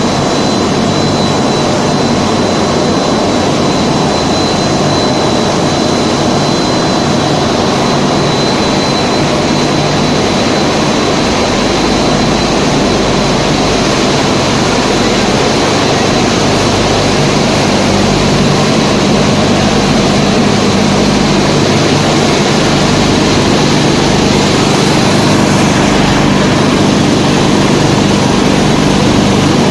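Snack pellet extrusion line machinery running: a loud, steady mechanical drone with a low hum and a thin high whine that fades away a few seconds before the end.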